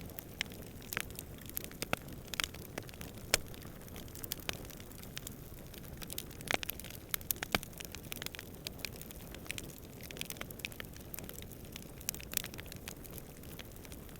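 Campfire crackling with irregular sharp pops and snaps, one louder pop about three seconds in, over a steady low rumble of distant wind.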